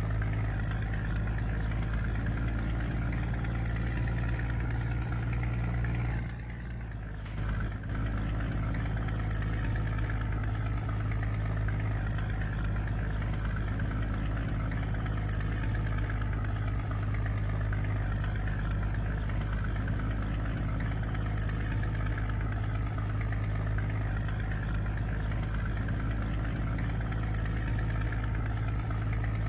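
Scania G124 truck's six-cylinder diesel engine running at a steady low speed. It dips briefly about six seconds in, then picks up again with a click.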